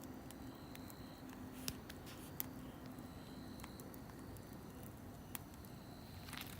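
Campfire burning quietly, with a few sharp pops from the wood over a soft steady hiss.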